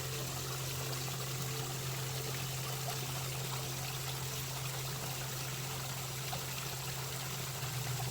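Water flowing steadily in a creek, with a steady low hum underneath.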